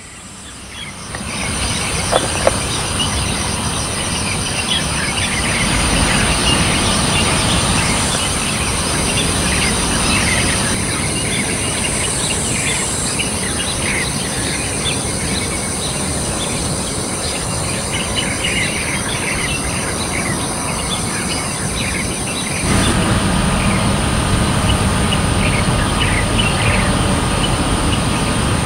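Outdoor ambience of many short bird chirps and calls over a constant high-pitched hiss or buzz and steady low background noise. The background changes abruptly about 23 seconds in.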